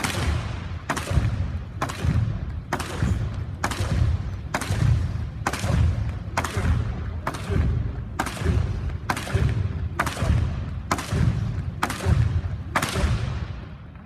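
A long group jump rope slapping the floor in a steady rhythm, about once a second, with the low thuds of several people landing from each jump. It runs unbroken for about fifteen turns and stops near the end.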